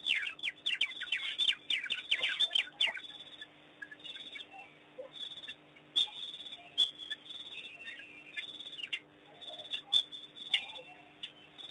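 High-pitched bird-like chirping and twittering calls: a quick run of short falling chirps in the first three seconds, then scattered single chirps.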